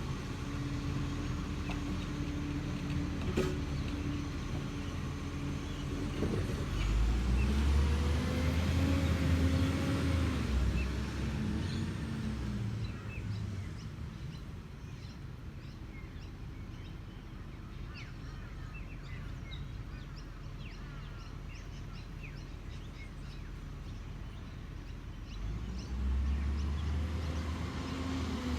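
Heavy diesel truck engine, likely a garbage truck, running, with two louder passes where the engine pitch rises and then falls, about a quarter of the way in and again near the end. It is quieter in between.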